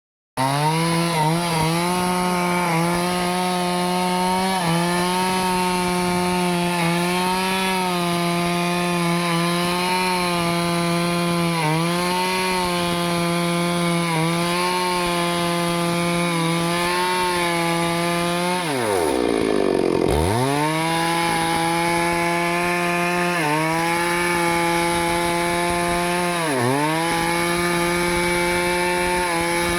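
Stihl two-stroke chainsaw running at high revs while cutting into teak wood, its pitch dipping briefly several times as the chain bites. About two-thirds of the way through, the engine drops almost to idle and then revs back up to full speed.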